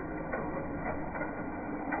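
HO scale slot cars running on the track: a steady electric motor whine of several held tones, with a few faint clicks. It sounds dull, with no high end.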